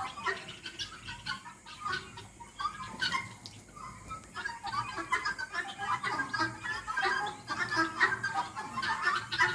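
A flock of chickens clucking and chirping, with many short calls overlapping. The calls grow denser from about halfway in.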